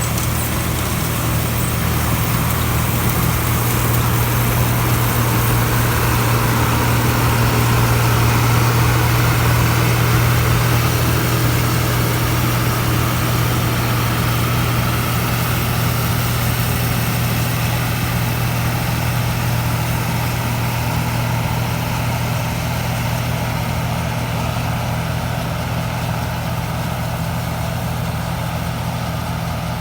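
Rice combine harvester's diesel engine running steadily with a low hum, growing a little louder about a third of the way in and then slowly fading.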